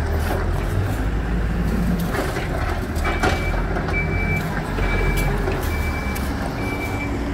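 Diesel engine of a Hidromek 102S backhoe loader running steadily. A reversing alarm starts beeping about three seconds in, roughly once a second, and a few sharp knocks are heard.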